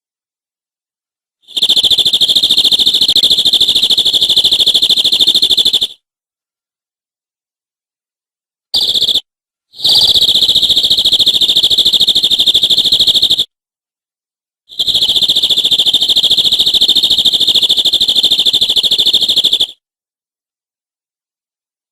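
Canary singing long, high, rapid rolling trills held at a steady pitch: three trilled phrases of about four to five seconds each, with a short burst between the first two, and dead silence between phrases.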